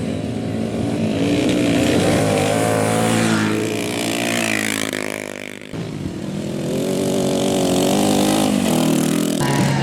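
Café racer motorcycle engines revving hard, the pitch climbing and then falling away. About six seconds in, the sound breaks off abruptly and another engine note climbs again.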